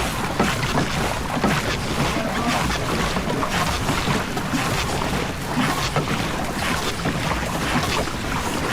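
Water rushing along the hull of a rowed racing boat under way, with wind buffeting the microphone.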